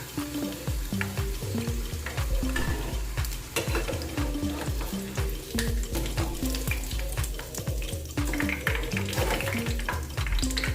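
Chicken pieces deep-frying in hot oil, sizzling steadily, with small clicks of a utensil as they are stirred and lifted out. Background music with a steady beat plays alongside.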